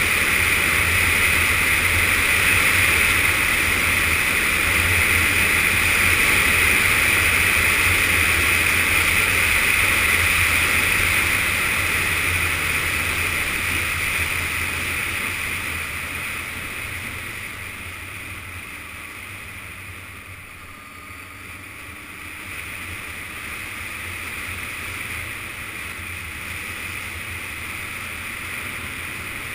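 Yamaha Fazer FZS600 motorcycle riding at speed, its inline-four engine under heavy wind rush on the camera microphone. The sound eases off from about halfway through, as when the bike slows, and picks up a little again near the end.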